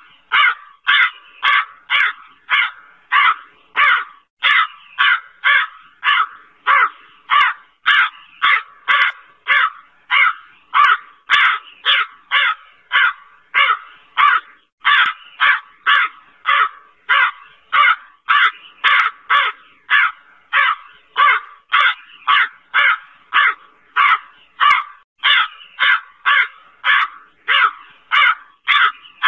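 Crow cawing over and over in short, evenly spaced harsh caws, about two a second, keeping a steady, unbroken rhythm.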